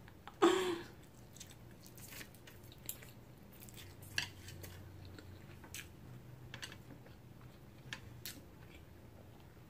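Close-miked chewing of a mouthful of spicy noodles, with a short louder mouth sound about half a second in, then soft scattered wet clicks and smacks.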